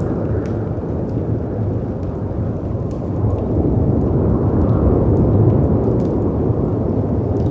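Layered storm ambience: a deep, steady rumble of wind and sea surf that swells a little past the middle, with faint scattered crackles and pops of a fireplace over it.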